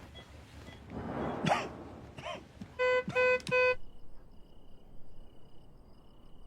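Three short, evenly spaced electronic beeps about three seconds in, preceded by brief wavering whimpers; a faint, broken high tone follows the beeps.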